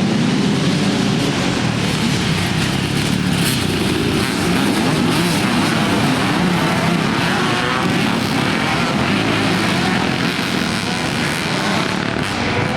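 Several classic motocross motorcycles running together, a loud, dense blend of engines that starts abruptly and holds steady.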